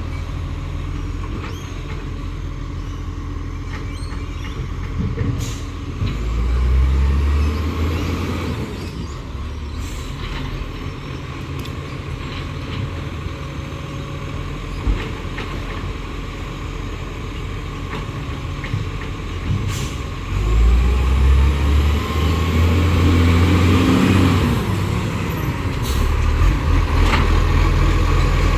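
Garbage truck's diesel engine running steadily, revving up twice for a few seconds each, with a few short sharp hisses or clanks in between.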